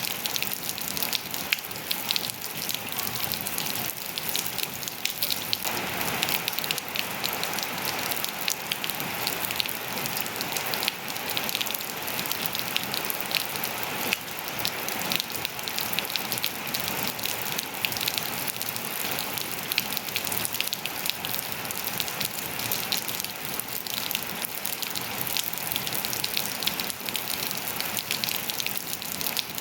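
Steady rain falling on surfaces, a dense patter of many small drop impacts over an even hiss, growing slightly fuller about six seconds in.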